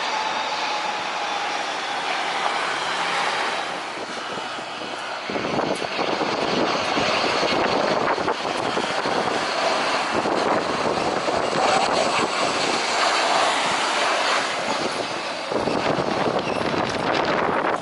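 Jet airliner engine noise as a plane comes in to land, with a faint falling whine in the first few seconds, over strong wind buffeting the microphone. The sound changes abruptly about five seconds in and again near the end.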